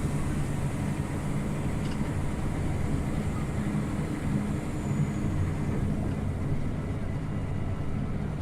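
Scania OmniLink CL94UB city bus running, its engine and road noise heard steadily from inside the passenger cabin.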